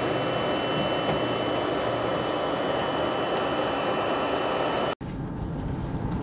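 Passenger train running at speed, heard from inside the carriage: a steady rush and rumble of the running gear with a thin steady whine over it. About five seconds in it cuts off abruptly, and a quieter, duller cabin hum follows.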